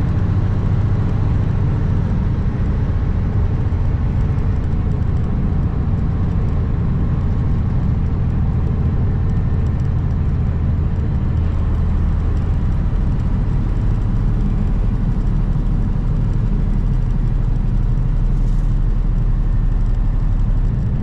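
Kenworth W900 semi truck's diesel engine running steadily under way, a continuous low drone mixed with road noise. About two-thirds of the way through, its note drops lower.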